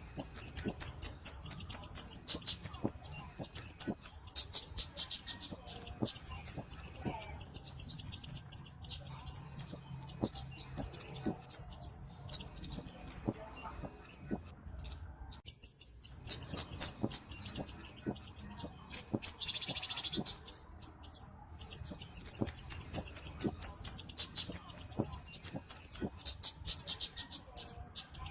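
Flowerpecker (cabe-cabean) calling: long runs of rapid, very high, thin chips, many to the second, broken by short pauses about fifteen and twenty-one seconds in.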